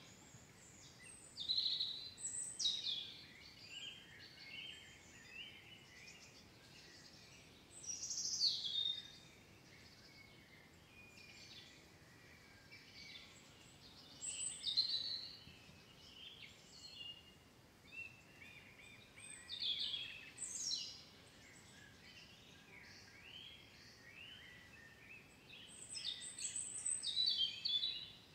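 Songbirds singing, with short phrases of high chirps and trills every few seconds over a faint steady hiss.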